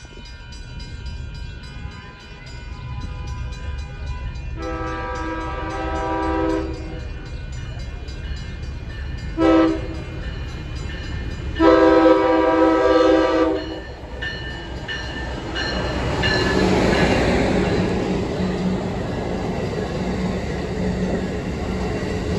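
Passenger train horn sounding a chord of several tones: a long blast, a short one and another long blast. The train then passes close by with a rising rush of wheel and engine noise and a steady low hum.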